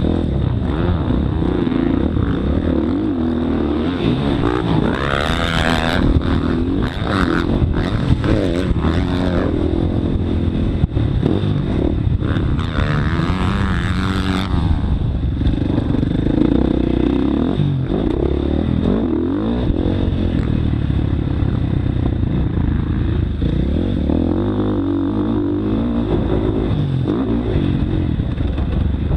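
Motocross bike engine revving up and down continually as the rider works the throttle, with a rushing noise over it twice, for a few seconds each time.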